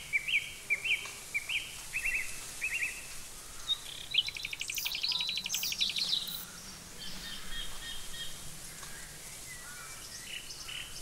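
Wild birds calling in woodland: a series of short, repeated chirps for the first few seconds, then a rapid trill about four seconds in, followed by fainter scattered calls.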